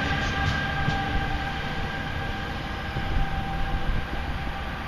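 Commuter train running away from the listener along the track, its rumble fading steadily, with a steady high whine that dies away over the first couple of seconds.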